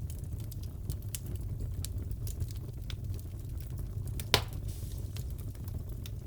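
Fire crackling in a fireplace: a steady low rumble with scattered crackles and one loud pop about four seconds in.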